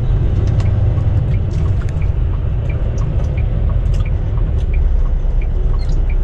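Semi-truck cab at highway driving: the diesel engine and road noise make a steady low rumble, with faint light ticks repeating a few times a second.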